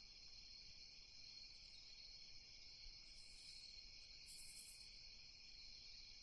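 Faint night-time chorus of crickets trilling steadily, with two short, higher-pitched insect trills a little past the middle.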